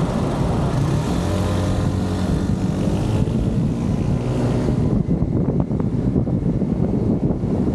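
Car engine pulling away from a stop, its pitch shifting in the first few seconds. About five seconds in, wind buffeting the microphone on the open-top car takes over as a rough low rumble.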